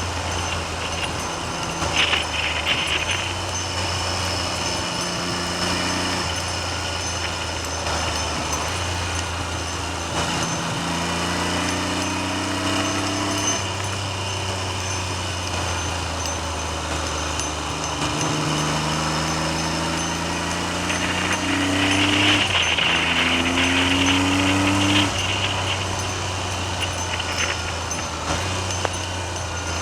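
Triumph Trident three-cylinder motorcycle engine under way, its note rising with the revs and dropping back several times as it accelerates and changes gear, with wind noise over the microphone.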